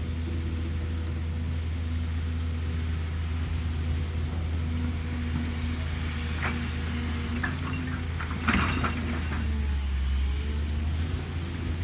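Cat excavator's diesel engine running steadily at a low, even pitch. A few short knocks and scrapes come about halfway through, the loudest about two-thirds of the way in.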